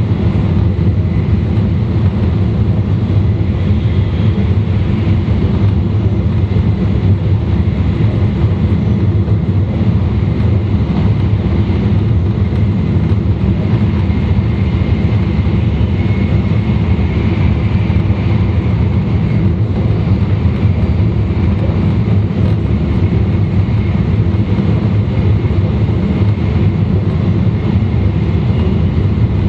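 E2 series Shinkansen (set N13, Mitsubishi IGBT traction equipment) running noise heard from the car vestibule: a steady, loud low rumble that stays even throughout.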